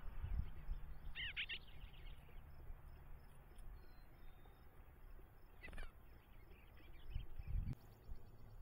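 A bird giving two short chirping calls, one about a second in and one near six seconds, with a few low thumps near the start and near the end.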